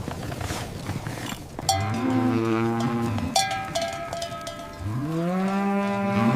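A cow mooing twice: two long, low moos, the second starting with an upward swoop, with a few sharp clanks between them.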